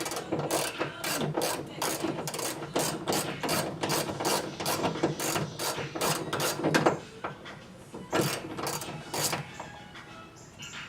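Hand ratchet wrench clicking in quick repeated strokes as bolts are undone on a car, running for about seven seconds, then a second short run of strokes before it falls quieter near the end.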